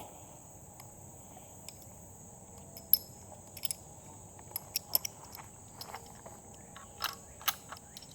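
Irregular small clicks and knocks of a gun being handled and loaded, over a steady high drone of crickets.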